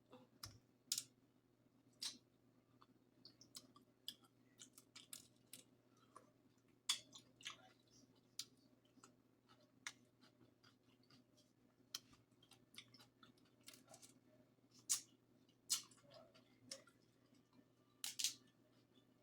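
Faint, irregular sharp clicks and snaps of crab-leg shells being cut and cracked, with quiet chewing, over a low steady hum.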